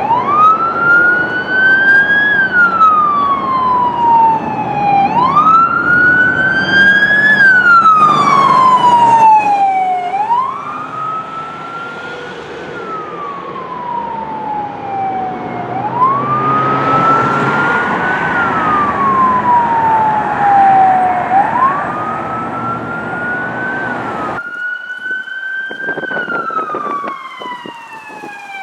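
Emergency vehicle siren on a slow wail, climbing quickly and falling slowly about every five seconds, over engine and road noise.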